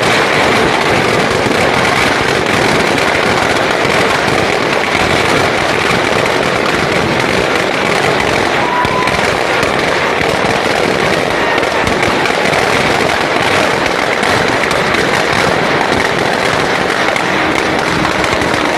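Firecrackers going off in a dense, continuous crackle, loud throughout.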